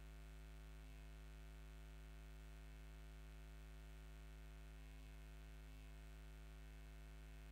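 Near silence: a steady electrical mains hum with faint hiss, unchanging throughout.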